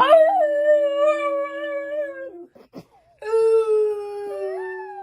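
A dog howling: two long, drawn-out howls held at a fairly steady pitch, with a short break of under a second between them.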